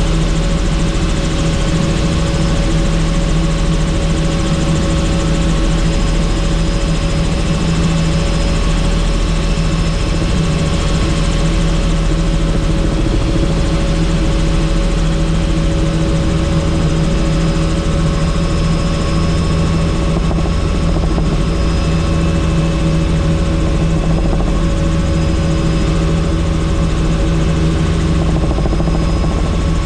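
Helicopter in flight: loud, steady rotor and engine noise with a constant hum, unchanging throughout.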